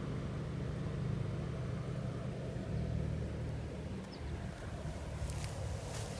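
A steady low engine hum from a motor running somewhere off, with a few light clicks near the end.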